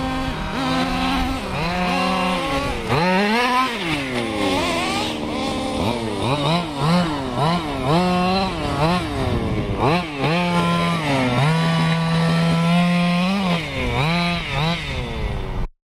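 Small two-stroke engine of a large-scale RC car, revving up and down over and over as it is driven, with a long high-revving stretch a little past the middle. The sound cuts off suddenly at the end.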